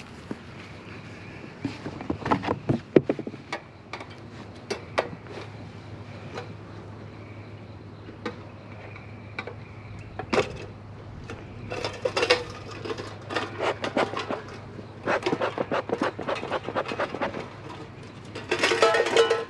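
Irregular knocks, clicks and scraping of wooden beehive boxes and frames being handled, in several clusters with the loudest rapid run near the end, over a faint steady hum of bees.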